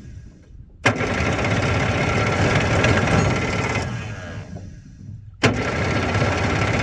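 Homemade jet boat's engine running loud, easing off twice and coming straight back in abruptly, about a second in and again near the end.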